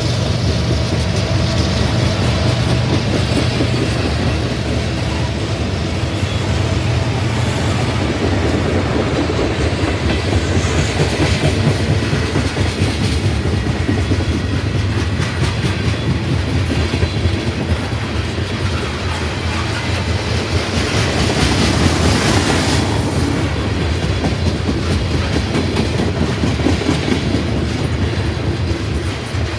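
Freight train cars rolling past close by, a steady loud rumble with wheels clicking over rail joints.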